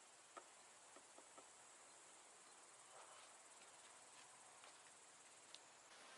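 Near silence with faint, steady chirring of crickets or similar insects, which cuts off near the end, and a few soft clicks.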